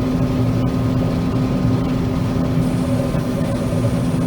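John Deere 9500 combine running steadily while harvesting soybeans: an even machine drone with a strong constant hum. A faint high whine comes in about two and a half seconds in.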